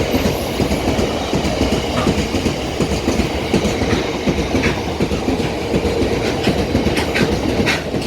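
Freight wagons behind a Class 59 diesel locomotive rolling past at speed, wheels clattering steadily over the rail joints.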